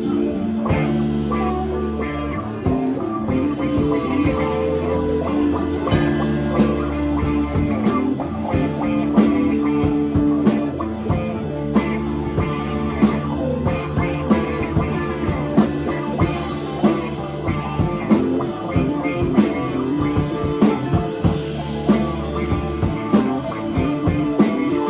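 Live rock band playing an instrumental passage: electric guitar and bass over a steady drum-kit beat.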